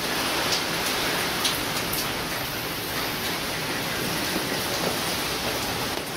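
Typhoon storm: heavy rain and wind making a steady loud rush, with a few brief ticks of drops scattered through it.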